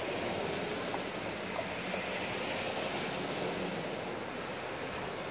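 A distant Amtrak train approaching on electrified track, heard as a steady, even rushing noise.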